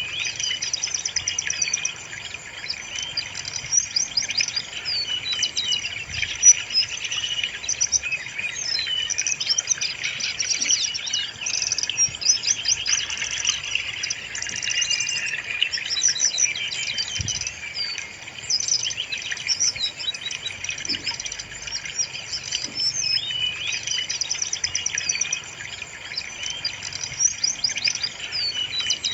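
Brown-chested jungle flycatcher song playing without a break: rapid, high-pitched chirps, twitters and short trills in overlapping phrases.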